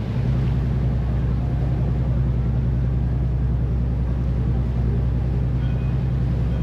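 Tour boat's engine running with a steady low drone, heard from on board.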